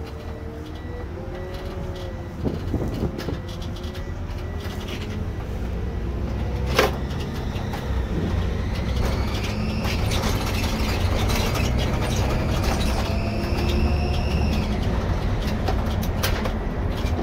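Irisbus Récréo II coach with ZF EcoMat automatic gearbox running under way, heard from the driver's seat: a steady low engine rumble, a single knock about seven seconds in, then a rising whine that holds steady for several seconds as the coach speeds up.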